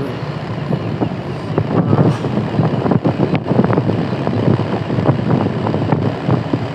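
Vehicle on the move: steady engine and road noise with a dense run of irregular knocks and rattles, as on a rough, unpaved stretch of road.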